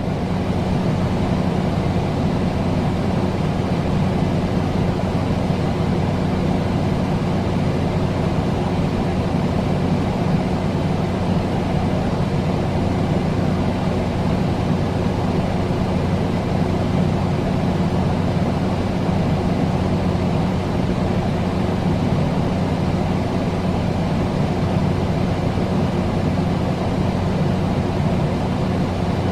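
A steady machine drone: an even rushing noise over a constant low hum, with no change in pitch or level.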